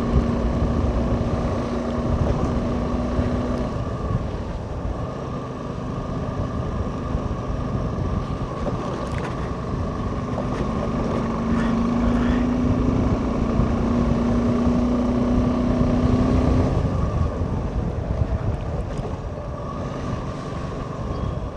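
Suzuki V-Strom SX 250's single-cylinder engine running while riding, under heavy wind buffeting on the microphone. The engine note fades for several seconds after the start and comes back stronger around the middle.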